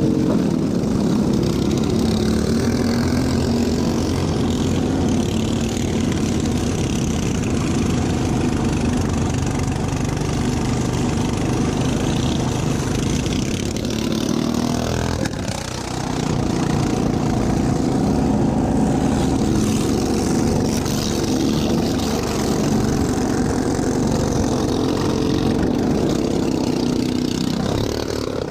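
Racing lawn mower's small engine running hard at a steady pitch. About halfway through it slows briefly, then climbs back up.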